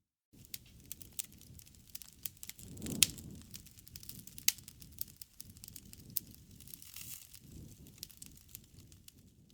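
Wood campfire crackling: a steady run of sharp pops and snaps over the low rush of the flames, with the loudest pop and a swell of flame sound about three seconds in and another sharp pop a second and a half later.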